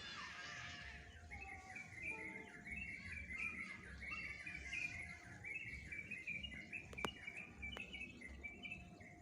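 Small birds chirping in quick runs of short repeated notes, after the last of a passing train's noise dies away in the first second. A single sharp click about seven seconds in.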